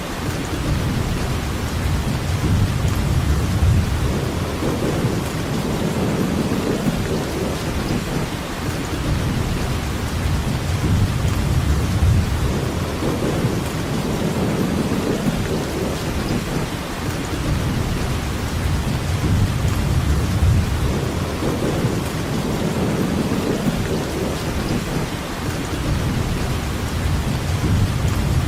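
Steady rainfall with a low rumble underneath that swells and fades every few seconds.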